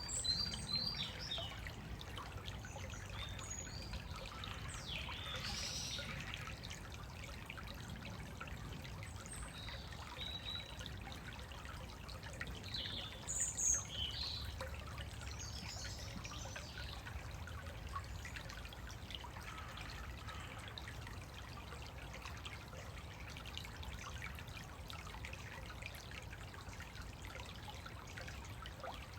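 A small woodland stream trickling steadily, with woodland songbirds giving scattered short, high chirps over it. The loudest call comes about halfway through.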